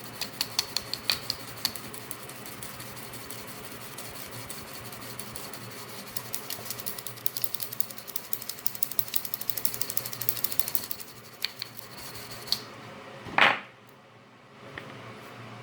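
Brush buffing the shoe-polished wheels of a small die-cast model, a rapid, irregular run of light clicks that grows busier in the middle and stops about eleven seconds in. A single louder knock comes near the end.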